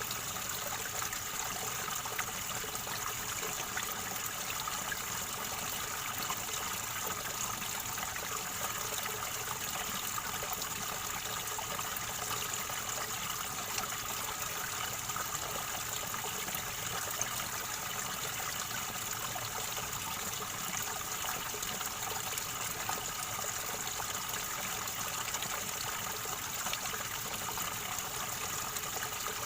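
River water gurgling and trickling steadily.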